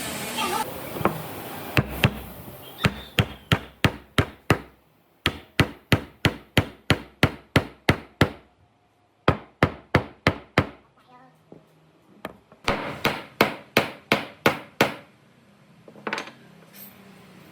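A hammer striking wood in runs of quick, even blows, about three a second, with short pauses between runs and a single last blow near the end.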